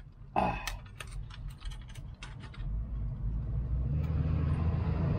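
Several short light clicks and rattles in the first half, over a steady low engine rumble that grows louder from a little past halfway.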